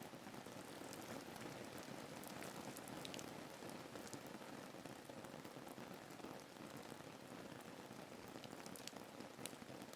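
Steady rain ambience: a soft even hiss of rain falling on a surface, with scattered light drop ticks.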